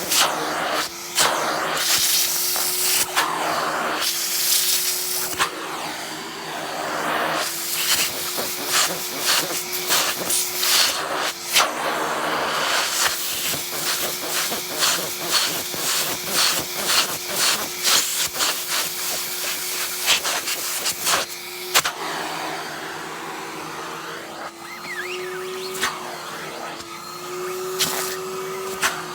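Henry cylinder vacuum cleaner running with a steady hum and rush of air, its note shifting up in pitch a few times as the nozzle is pressed to and pulled off a padded down jacket. Many short clicks and rattles come through as the nozzle works over the fabric and zips.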